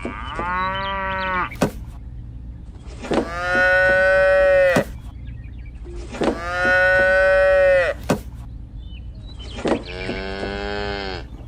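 Cow mooing four times in long, drawn-out calls, with short clicks between some of them.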